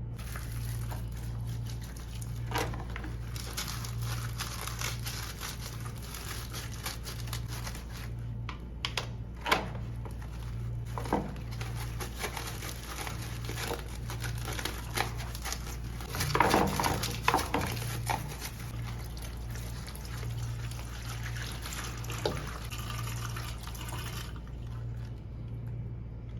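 Water running and splashing, with scattered knocks and clatters and a steady low hum underneath.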